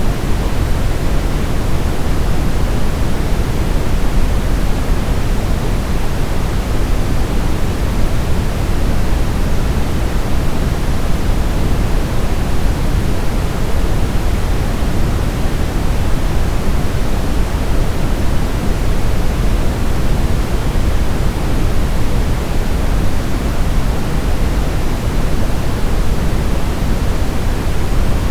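Steady synthetic noise, deep and even, weighted toward the low end and thinning toward the highs, like pink noise, unchanging throughout: a continuous sleep-aid noise track.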